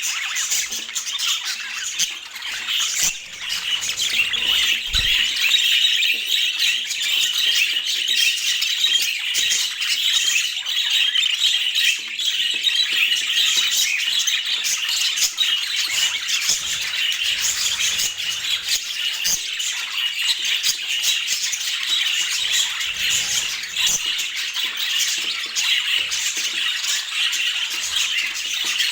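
Budgerigars chattering steadily, a dense run of high chirps without a break.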